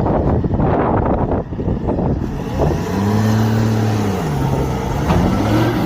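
Heavy vehicle engine running under loud rumbling noise. About three seconds in, a steady engine tone comes up, then drops in pitch and rises again toward the end.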